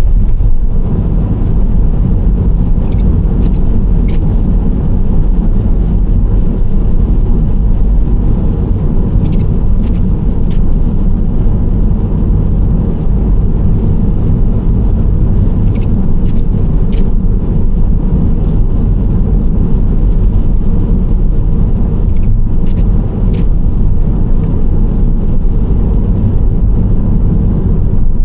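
Nissan Serena C25 minivan driving at a steady speed: a constant low rumble of engine and tyres on the road, with faint short ticks scattered every few seconds.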